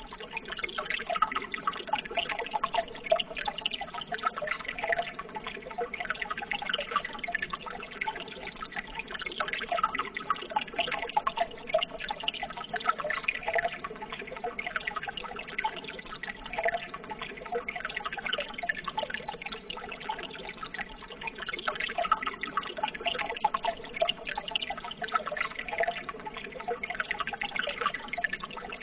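Steady running water, trickling and splashing with a dense run of small drops.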